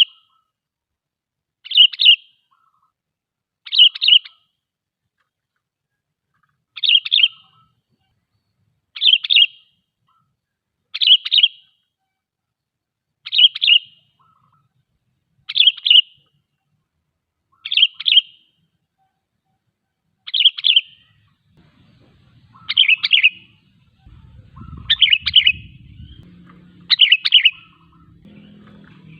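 Sooty-headed bulbul (kutilang) giving its short, bubbling call phrase over and over, each about half a second long and repeated about every two seconds. A faint low rumble joins in the background over the last several seconds.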